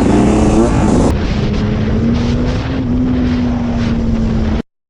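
Motorcycle engine running hard with wind rush, its pitch bending with the revs; about a second in it gives way to a steadier, slightly rising engine note. The sound cuts off abruptly near the end.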